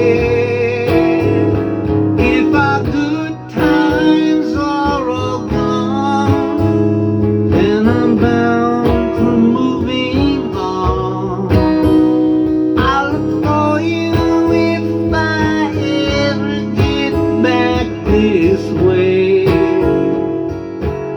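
Acoustic guitar strummed in a country-folk song, with a wavering melody line bending over the chords, in a passage with no sung words.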